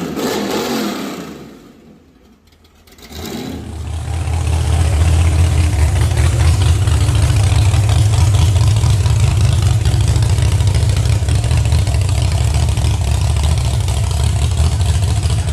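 A car engine running at a steady idle, a loud, deep rumble that comes in about three and a half seconds in after a brief lull and holds steady.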